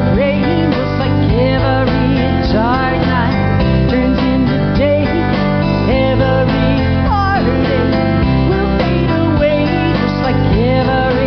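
Instrumental break of a country song: guitar-led band music, a lead line of bending, sliding notes over a steady backing.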